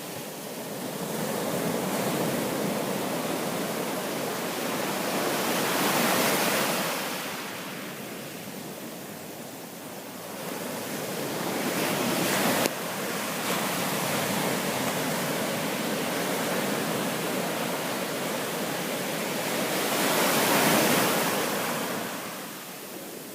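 Ocean surf breaking on the shore, the rush of the waves swelling and fading three times.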